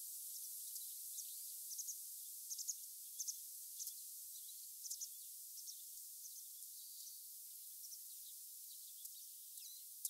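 Small birds chirping: short high chirps in quick little clusters over a steady hiss, thinning out in the second half.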